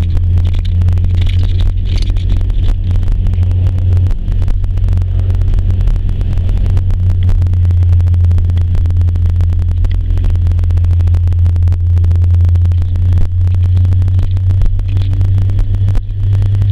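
An engine running steadily with a loud, constant low drone.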